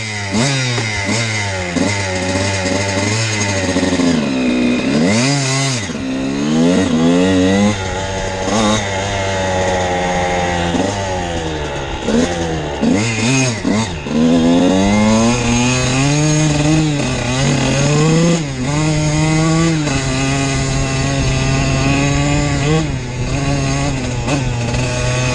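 Dirt bike engine running under changing throttle, its revs repeatedly rising and falling. The revs drop sharply twice in the first half, then hold a steadier pitch for the rest.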